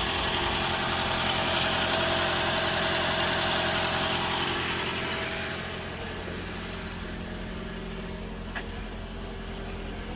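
Car engine running at idle with a steady hum, a little quieter from about six seconds in.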